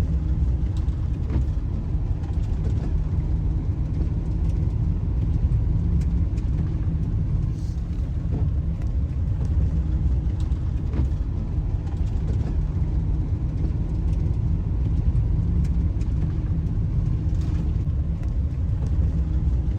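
A van driving along a winter road: a steady, low rumble of engine and tyres.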